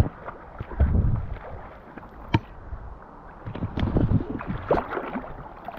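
Water sloshing and splashing around a floating inner tube, with a few sharp knocks and wind buffeting the microphone.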